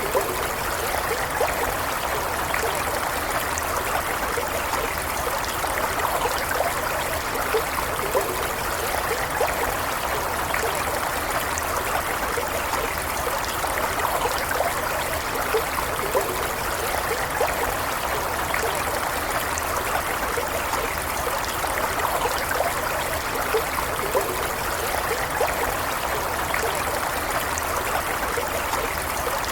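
Small stream running steadily, with continuous babbling and trickling over stones.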